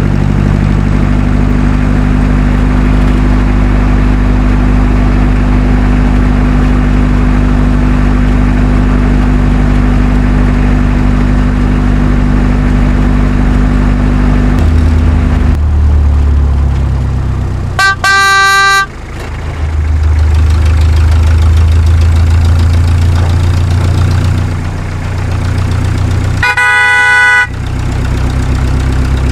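A truck engine running steadily, its note shifting lower about halfway through, with two short horn blasts: one a little past halfway and one near the end.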